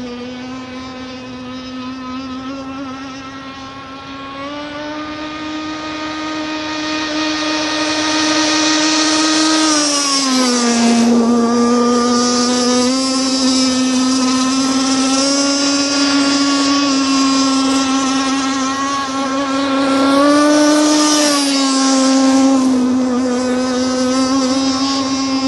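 RC racing catamaran's motor running flat out on a speed pass: one steady high note that grows louder over the first ten seconds, drops sharply in pitch about ten seconds in as the boat goes by, and dips in pitch again just after twenty seconds.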